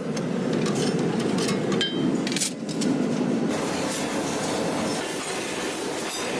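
Factory machinery running steadily, with a few sharp metallic clanks and knocks of steel parts being handled on a leaf-spring production line.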